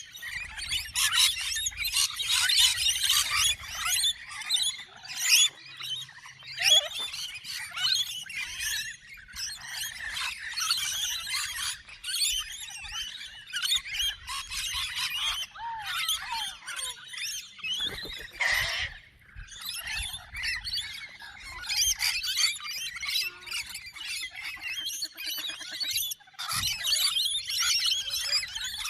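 Many small birds chirping and chattering together, a constant overlapping din of short high-pitched calls.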